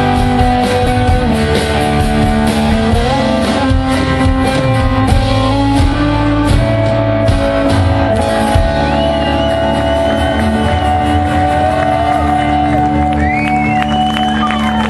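Live rock band playing a loud, guitar-led instrumental passage with held chords, and high sliding guitar tones in the last few seconds.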